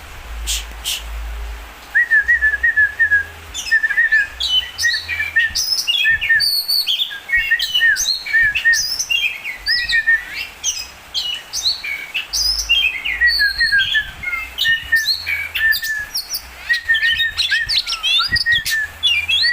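Oriental magpie-robin (kacer) in full song: a fast, varied run of whistles and chirps over a string of repeated short notes, starting about two seconds in. A few sharp clicks come before it.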